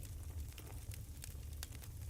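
Burning firewood crackling: scattered sharp pops and snaps over a low steady rumble.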